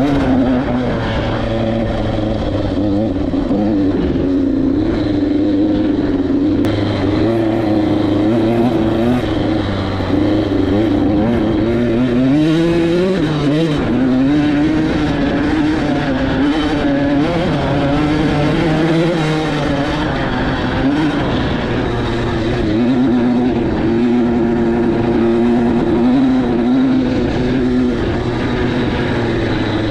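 Single-cylinder two-stroke engine of a KTM 85SX dirt bike running under the rider's throttle, its pitch rising and falling continually as she opens and closes the throttle, with one clear climb in revs about halfway through.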